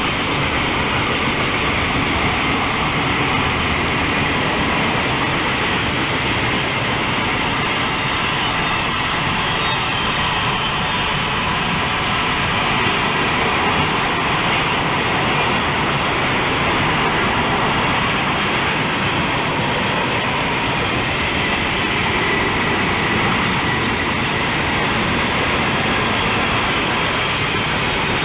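A mixed freight train's cars rolling past, their steel wheels on the rails making a steady, unbroken noise.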